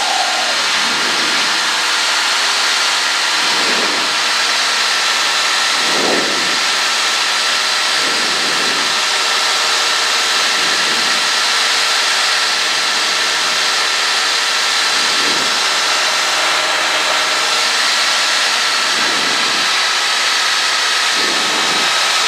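Cessna 152's Lycoming O-235 four-cylinder engine and propeller droning steadily in cruise, heard inside the cockpit with a constant hiss over it.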